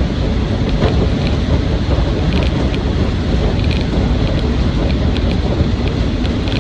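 Inside the cab of a Land Rover Defender 90 300Tdi soft top on the move: the 2.5-litre four-cylinder turbodiesel running under way, with steady road and wind noise and light scattered rattles.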